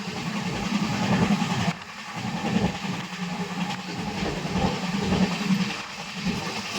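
Heavy rain falling with a steady hiss, over a low, wavering rumble of a vehicle's engine and running.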